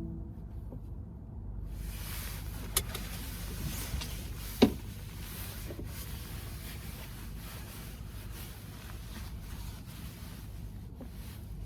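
Cabin noise inside a moving VW ID.4 electric car: a steady low road rumble. About two seconds in, a broad hiss of wind and road noise comes in and stays, with a couple of small clicks from the cabin.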